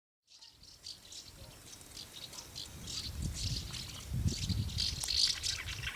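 Swallows twittering: many short, high chirps that start suddenly a moment in and grow busier and louder toward the end, over a low rumble.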